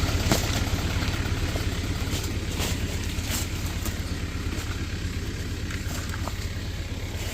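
A 50 hp tractor's engine running steadily, a low pulsing rumble that slowly grows fainter, with a few light clicks.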